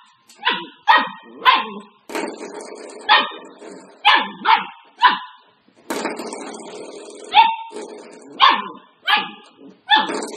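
A dog barking repeatedly in short, sharp barks, about a dozen in all, some in quick pairs. A steady background hiss runs between the barks from about two seconds in.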